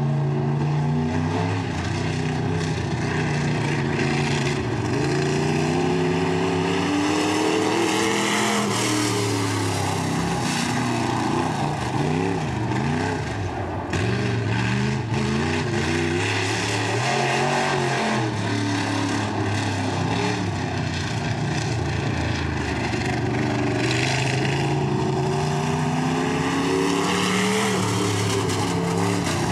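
B-Mod dirt-track race car's V8 engine revving up and easing off in repeated cycles as it laps the track, the pitch climbing and dropping every several seconds.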